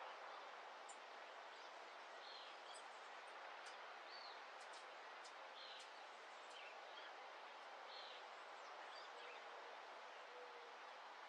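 Faint dawn ambience: scattered short bird chirps and calls over a steady hiss of background noise.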